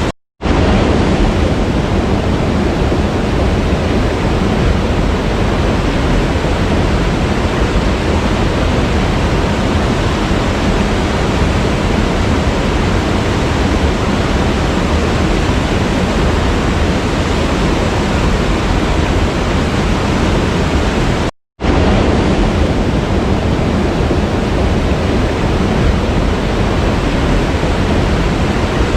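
Steady rushing of a waterfall, a dense even wash of water noise. The sound cuts out to silence for a split second twice, just after the start and about 21 seconds in.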